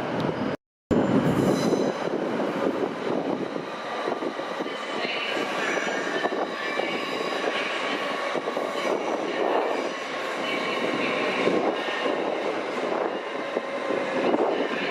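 A train running through the station: a steady, loud rumble of wheels on rail with thin high squealing tones over it, after a split-second cut to silence about half a second in.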